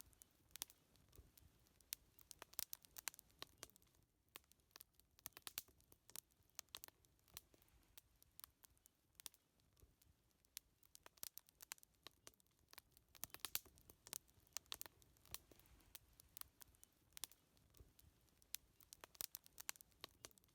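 Wood fire crackling: irregular sharp snaps and pops of burning wood, several a second, over a faint low rumble.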